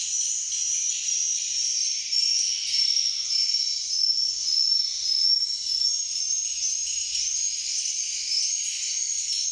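Swiftlets twittering: a dense, unbroken chorus of many high chirping calls, with short gliding notes overlapping several times a second.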